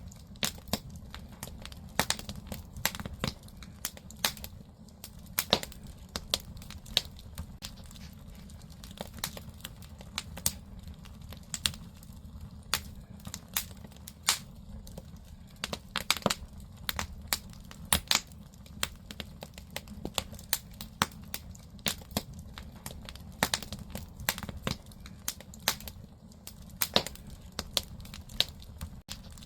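Firewood burning in a traditional Korean agungi firebox, crackling with irregular sharp pops over a low, steady rumble of the fire.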